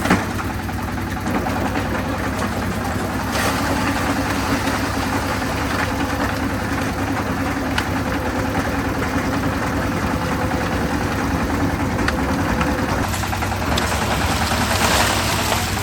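Concrete mixer's engine running steadily with a low rumble; a steady mid-pitched hum in it stops about thirteen seconds in.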